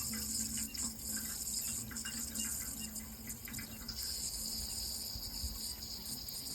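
Running water, a steady splashing flow with small drips and splashes ticking through it. A steady high-pitched insect drone and a low steady hum sit under it.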